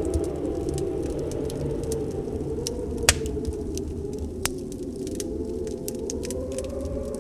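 Wood fire crackling with scattered small pops, including a sharp snap about three seconds in and another about a second and a half later. Behind it, a steady storm wind whose pitch slowly wavers.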